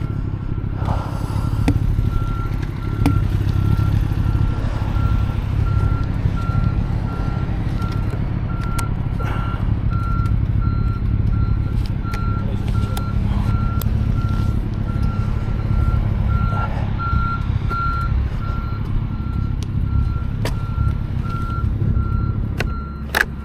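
A vehicle's reversing beeper sounding about once a second, one short high beep at a time, over a steady low engine rumble. Near the end there is a sharp click and the rumble drops away.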